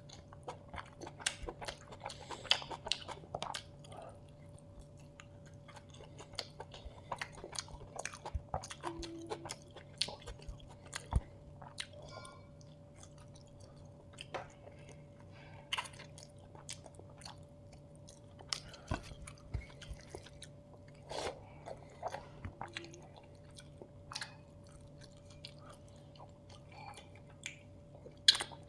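Close-miked chewing and biting of a chicken biryani meal, many irregular short clicks and smacks of the mouth working the food.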